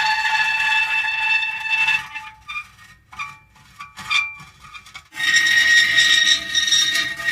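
Metal creaking: a long, high squeal that stops about two seconds in, a few short squeaks, then another long creak starting about five seconds in.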